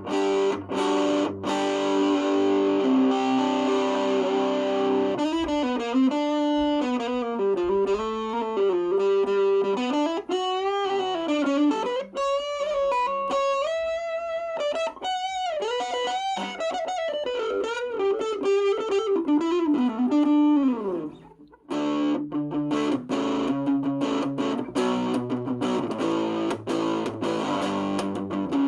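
Electric guitar played through a distortion pedal: held distorted chords, then a single-note lead line with string bends and vibrato, a brief break about three-quarters of the way in, then chords again.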